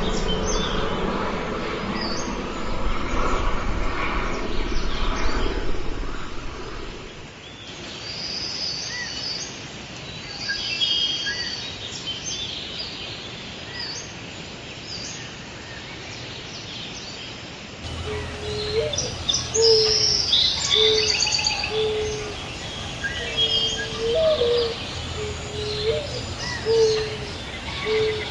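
Small songbirds chirping and calling in short high notes, over a low background rumble for the first several seconds. In the second half a dove coos in a repeated series of low notes, some rising in pitch.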